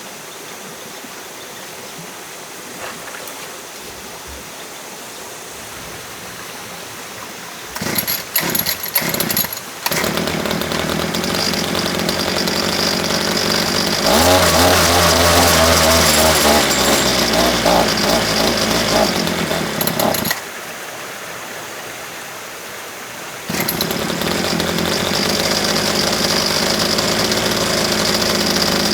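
Small petrol engine starting with a few sputters and then running steadily, getting louder partway through as if working under load. It stops and is started again a few seconds later.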